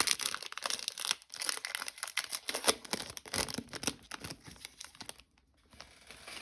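Crinkling and tearing of a foil trading-card pack wrapper as it is opened and handled, a dense crackle that stops about five seconds in.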